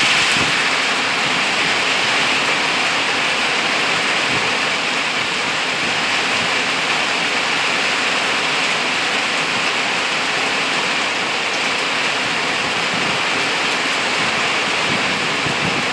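Steady rain shower falling on leafy shrubs and the ground, a dense, even hiss.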